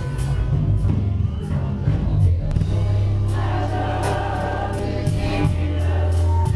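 Gospel music: voices singing together over a band, with a long low held note from about two seconds in and regular cymbal-like strikes.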